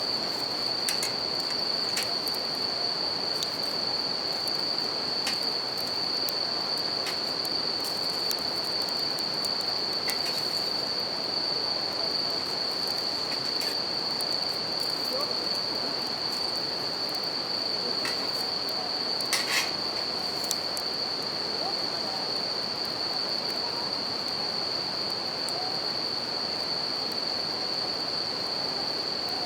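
Japanese bell crickets (suzumushi) singing in a continuous high-pitched ring over the steady rush of a river, with a campfire crackling in scattered pops, two sharper ones about two-thirds of the way through.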